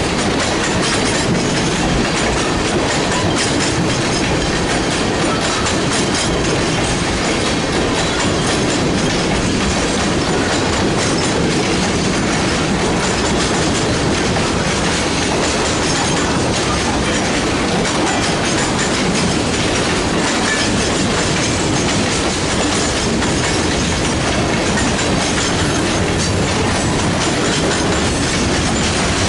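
Freight train cars rolling past on the track: a steady, loud rolling noise of steel wheels on rail with faint regular clicks, unbroken throughout.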